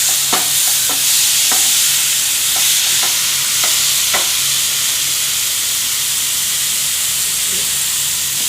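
Onion, tomato and cashew masala sizzling in butter in a pan while it is stirred and the tomatoes are mashed down, with scattered clicks of the spoon against the pan, most of them in the first half.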